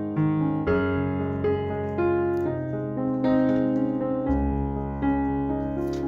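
Background piano music: a slow melody of held notes over sustained low chords, with a deeper bass note coming in about four seconds in.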